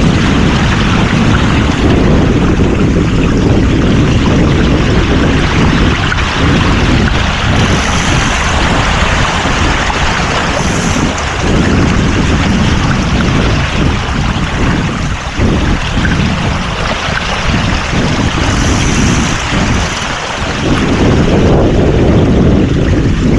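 Wind buffeting the microphone aboard a sailboat under way, a loud, steady rumble with gusty dips, over the rush of water and waves.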